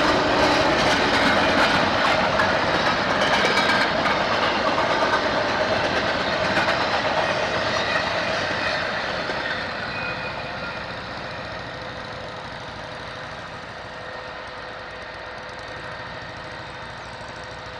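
Train rolling past on the rails, a steady rumble with clickety-clack of wheels over the rail joints, fading away from about halfway through as it moves off.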